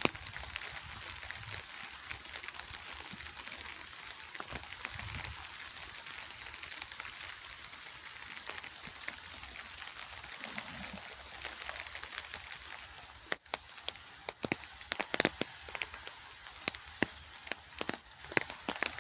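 Steady rain hissing, with close, sharp drop impacts tapping irregularly; the taps come thicker and louder in the second half.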